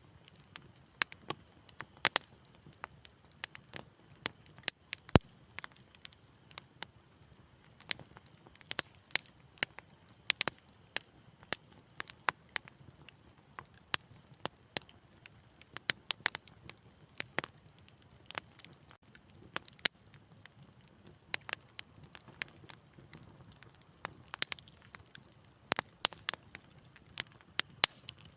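Wood fire in a fireplace crackling: irregular sharp pops and snaps, often several a second, over a soft low hiss.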